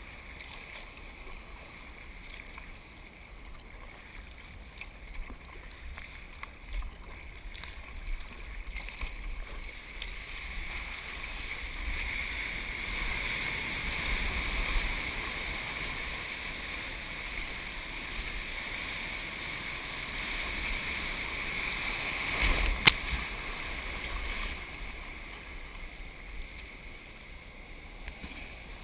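Ocean water rushing and splashing around a surf kayak, swelling to a steady rush for about twelve seconds in the middle, with one sharp knock just before it fades.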